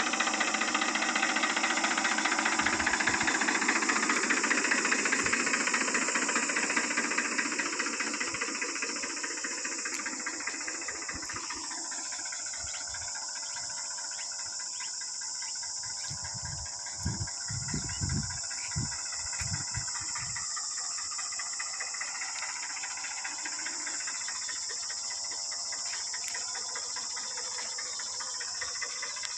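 Diesel tractor engine running with a knocking beat, loudest for the first several seconds and then fading as it draws away, with a steady high hiss throughout.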